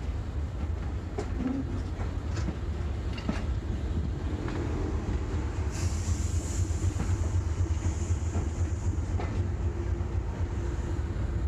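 Steam train hauled by a Hunslet Austerity 0-6-0ST saddle tank locomotive, running with a steady heavy rumble and sharp clicks about once a second. A high hiss comes in about six seconds in and fades toward the end.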